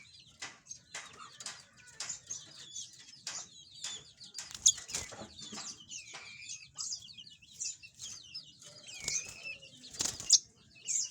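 Caged domestic canary giving short, high chirps and calls amid frequent quick flutters and knocks as it moves about the cage. There are sharper knocks about halfway through and near the end.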